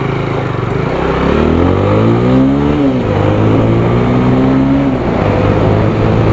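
A single-cylinder 200 cc motorcycle engine pulling away under acceleration. Its revs climb, fall sharply at a gear change about three seconds in, climb again and fall at a second shift near the end.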